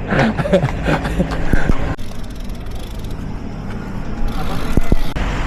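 A voice or two in the first couple of seconds, then steady road traffic noise with low rumble, louder again about four seconds in.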